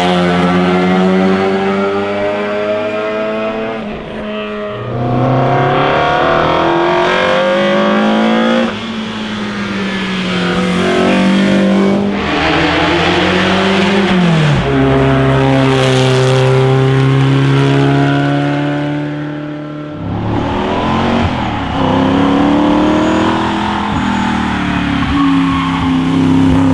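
Classic racing car engines accelerating hard up a hillclimb course. The revs climb and then drop sharply several times as gears change, each pull with a clear engine note.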